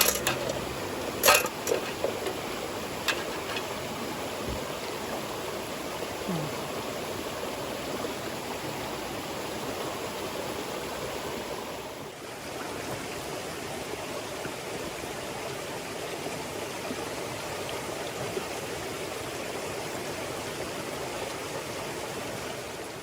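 Clear mountain stream babbling steadily, with a few sharp clicks in the first few seconds, the loudest about a second in.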